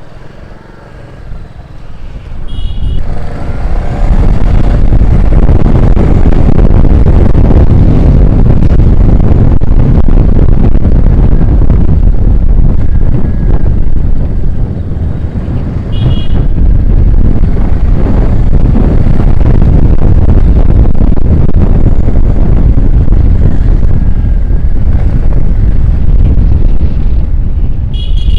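A Royal Enfield Classic 350 motorcycle being ridden through traffic, with heavy wind rush on the microphone covering most of the sound. Short horn toots come about three seconds in, again midway, and near the end.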